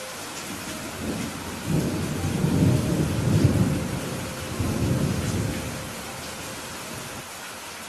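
Steady rain falling, with a rumble of distant thunder that swells from about two seconds in and dies away by about six seconds.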